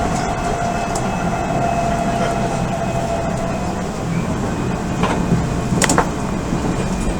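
Odakyu 1000 series electric train with Mitsubishi GTO inverter running, heard inside the car: a steady low rumble with a faint whine, and two sharp rail-joint clicks about five and six seconds in.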